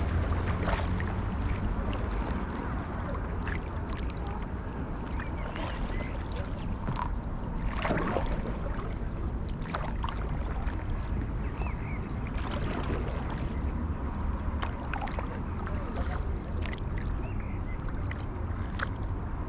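Paddle strokes dipping and splashing in canal water, with wind rumbling on the microphone. A few faint bird chirps come through now and then.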